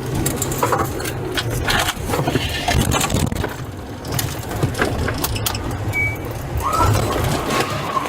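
Police car driving slowly, heard from inside: a steady low engine and road rumble with scattered knocks and rattles.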